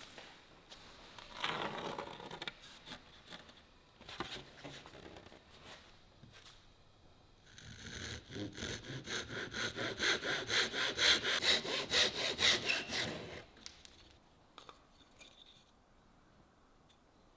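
Wood being cut with a hand saw: a run of quick, even back-and-forth strokes, about two or three a second, for some six seconds in the middle. Before it come shorter scrapes and a few knocks of wood being handled.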